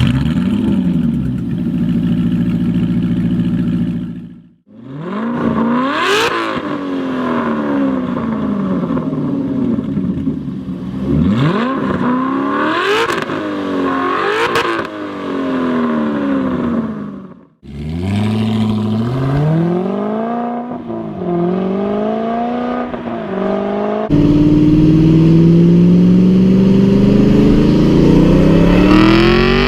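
Aston Martin V8 Vantage's 4.7-litre V8 exhaust. It runs steadily, then is revved hard several times with pitch shooting up and falling back, then climbs in pitch in steps as if accelerating through the gears, and ends on a long, higher, slowly rising note. Two brief dropouts split the sequence.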